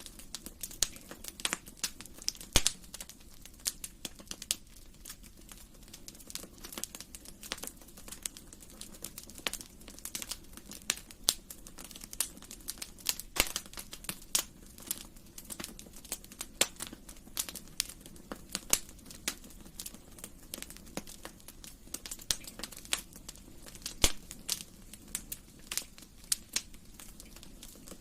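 Wood fire crackling in a fireplace: irregular sharp pops and snaps, several a second, over a low steady hiss of burning, with a few louder pops.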